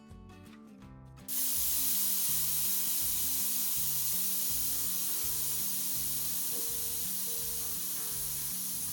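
A loud, steady spraying hiss starts suddenly about a second in and holds without change, over background music with a repeating bass line.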